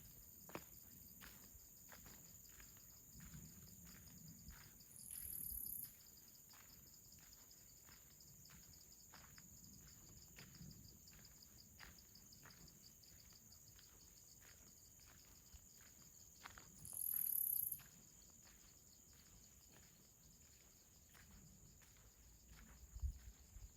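Faint, steady high-pitched trilling of insects, with two louder high buzzes of about a second each, a third of the way in and again about three quarters through. Soft, regular footfalls tick underneath at a walking pace.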